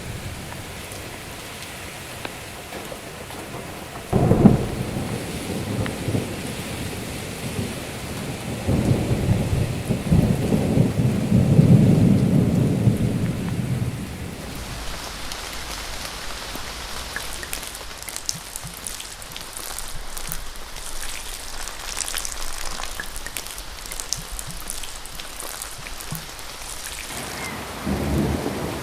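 Steady rain with low rolls of thunder, a short one about four seconds in and a longer, louder one from about nine to fourteen seconds. After that the rain sounds brighter, with scattered drops ticking on a surface.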